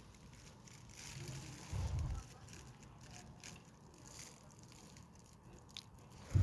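Wind gusting and buffeting the microphone, with low rumbles from the gusts about a second and a half in and again near the end, over a steady hiss.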